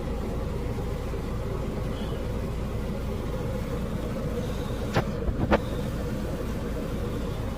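Car running with a steady low rumble, and two sharp clicks about half a second apart, about five seconds in.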